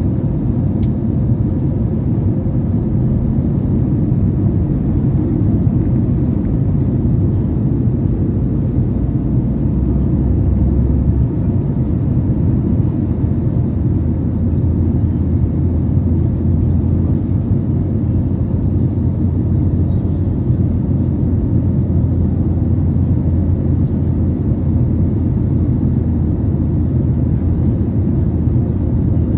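Steady, loud rumble of an airliner in flight heard from inside the cabin: engine and airflow noise, deep and unchanging.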